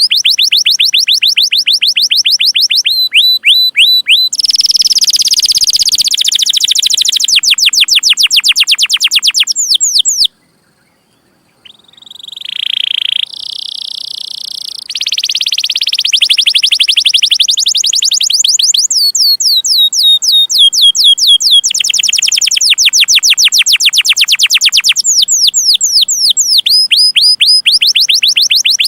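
Domestic canary singing long rolling trills: rapid runs of repeated high chirps, each note a quick downward sweep, changing from one note type to the next. About ten seconds in the song stops for a moment of near silence, then resumes with a rising note and further trills.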